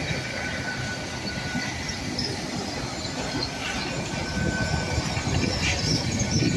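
GWR Intercity Express Train carriages rolling past close by as the train comes into the station, wheels rumbling on the rails over a faint, steady high squeal, a little louder near the end.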